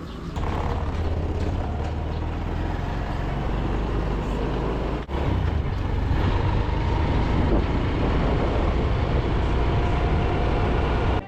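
Motorbike being ridden, its engine running steadily under a heavy low rumble of riding noise. The sound breaks off for an instant about five seconds in and then carries on.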